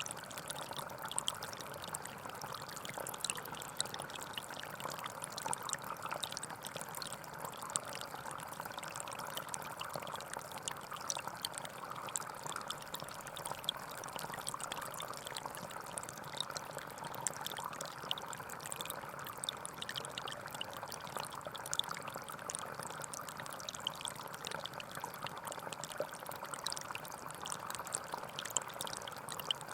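A small stream flowing steadily, a continuous babble of water with many little splashes and trickles.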